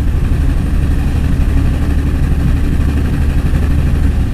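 A heavy engine running steadily with a deep, even hum, no rise or fall in speed.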